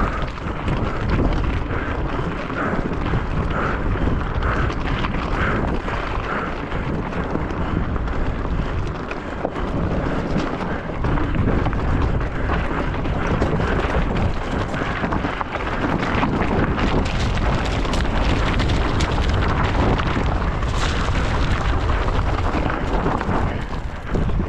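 Wind buffeting the microphone over the rattle and tyre noise of a mountain bike descending at speed: a continuous rough rumble with many scattered knocks.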